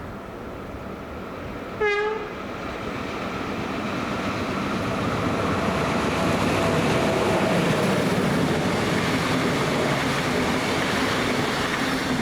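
Train giving one short horn blast about two seconds in, then its running noise swelling as it approaches and passes, loudest in the second half.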